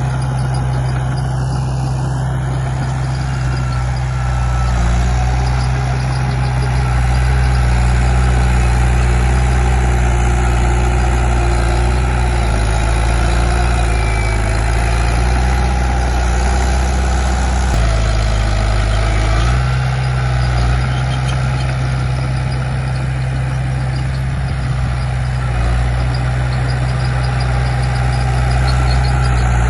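Komatsu D31P bulldozer's diesel engine running steadily under working load, its pitch shifting a few times as the load changes.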